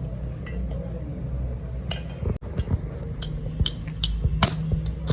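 Metal clinking and tapping, a scatter of sharp clicks in the second half, over a steady low machine hum.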